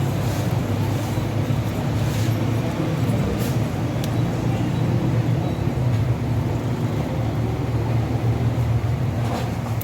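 An engine running steadily, with a low, even rumble, and a few faint clicks over it.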